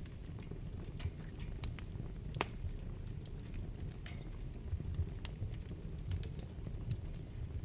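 Wood fire burning in a fireplace: a steady low rumble of flames with scattered crackles and pops, the sharpest pop about two and a half seconds in.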